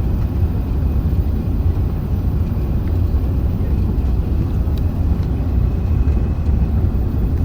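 Steady low rumble of Airbus A380 cabin noise during the descent to landing: engine and airflow noise heard from inside the cabin, heaviest in the deep bass.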